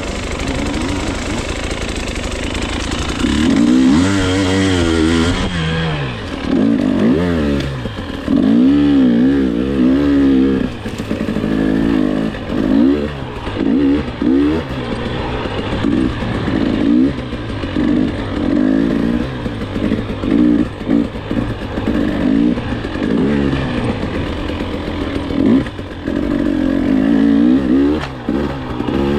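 Dirt bike engine ridden hard, its revs rising and falling over and over as the throttle is worked through the ride.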